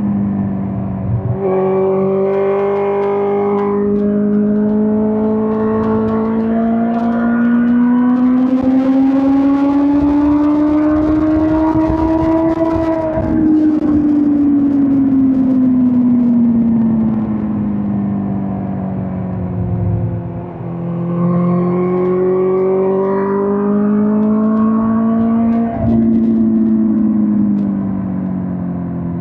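2005 Suzuki GSX-R1000 K5 inline-four engine running on the move. It climbs steadily in pitch for the first half, winds down, then climbs again, with a gear change near the end. Wind hiss is loudest around the highest revs.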